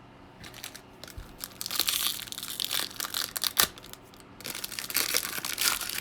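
Crinkling and tearing of a foil trading-card pack wrapper being opened and the cards handled, in two stretches of crackling with scattered clicks and a short lull between them.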